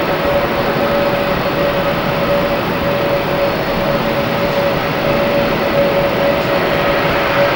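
Jet airliner's engines running: a steady rushing noise with a steady whine over it, holding an even level.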